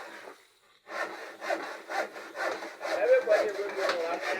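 Rhythmic rasping, scraping strokes, about two to three a second, starting about a second in.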